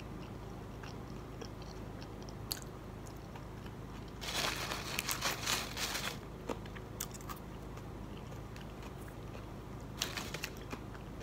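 A person chewing a forkful of coleslaw close to the microphone, with a run of crunching about four to six seconds in and a few single crunches and clicks scattered around it.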